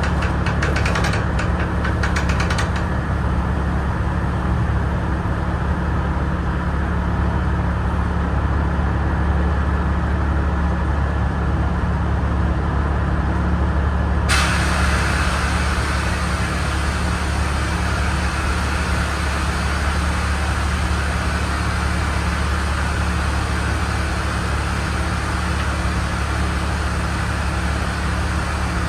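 Diesel engine of a Peterbilt 359 semi truck idling steadily. About halfway through, a steady hiss comes in suddenly and holds over the engine.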